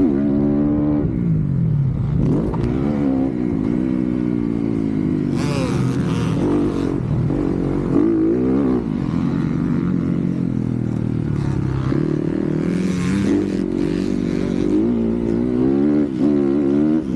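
Motocross dirt bike engine revving hard, its pitch rising and falling over and over as the throttle is worked and gears change, with two short bursts of hiss along the way.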